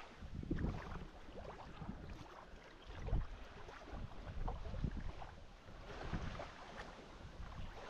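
Wind buffeting the microphone: an uneven low rumble that rises and falls, with faint scattered ticks over it.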